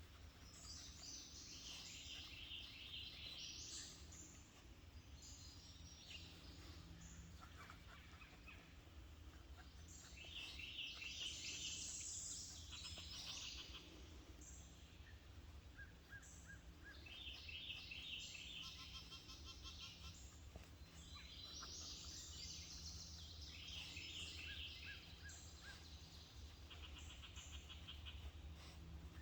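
Songbirds singing in woodland: short, high, chirpy phrases repeated every few seconds, with several birds overlapping, over a faint steady low rumble.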